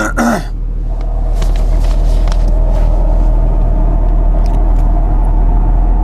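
A motor vehicle running with a steady low rumble of engine and road noise.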